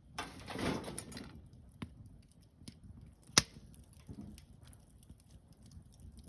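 Campfire wood crackling: scattered small ticks and one sharp pop about three and a half seconds in. A brief rustling noise comes in the first second.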